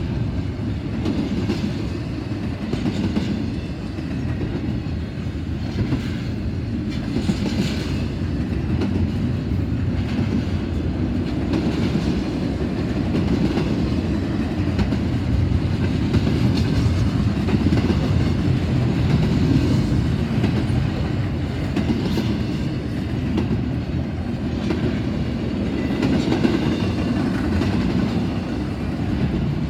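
Long double-stack freight train's cars rolling past close by: a steady, heavy rumble of wheels on rail with scattered clicks from the wheels.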